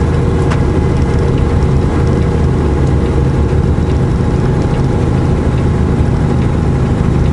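Semi truck's diesel engine running steadily, heard from inside the cab, with road noise.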